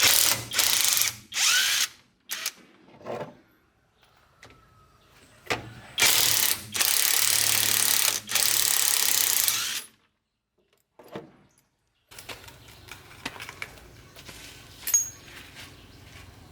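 Mechanical ratcheting from tool work on truck parts, in several loud bursts. The longest burst runs for about four seconds in the middle, and fainter clicks and ticks follow near the end.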